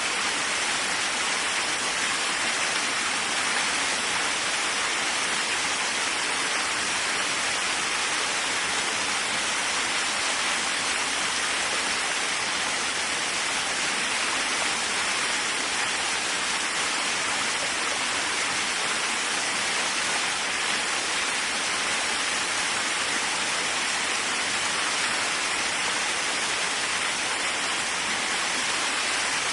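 Waterfall: water falling and splashing in a steady, unchanging hiss, strongest in the upper-middle range.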